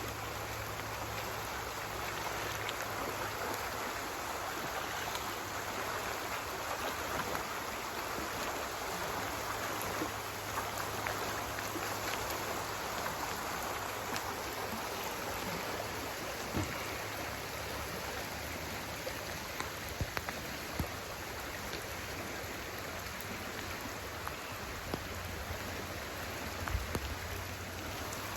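Flood-swollen creek rushing steadily, an even churning wash of fast-moving water with a few faint splashing ticks.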